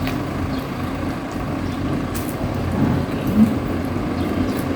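A few faint crackles as a whole rotisserie chicken is pulled apart by hand, over a steady low background rumble.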